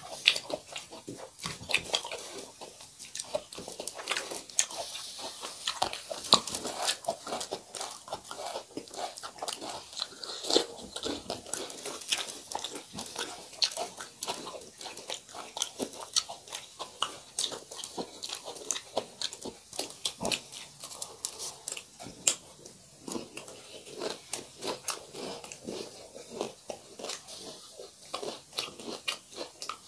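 Close-miked eating: steady crunchy chewing and biting of a meal of fried chicken and chiura (dry beaten rice flakes), with dense sharp crackles several times a second.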